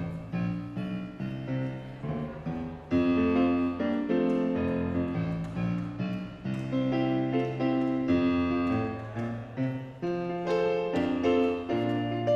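Piano playing chords over a bass line, getting louder about three seconds in.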